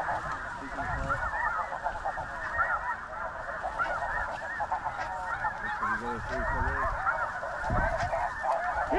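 A large flock of snow geese calling: a dense, unbroken chorus of many short overlapping honks and yelps.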